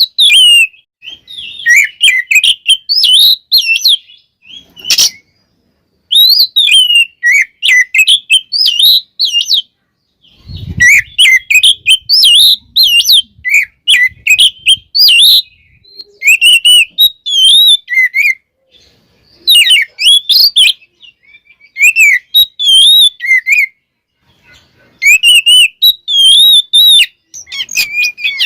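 Oriental magpie-robin singing in fast, varied bursts of whistles, chirps and trills, broken by short pauses of a second or two. A low thump comes about ten seconds in.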